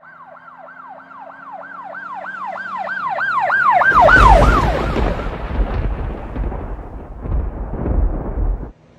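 A siren wails in a fast, repeating rise-and-fall yelp that grows louder. About four seconds in, a loud low rumble takes over, surges a few times, then cuts off suddenly just before the end.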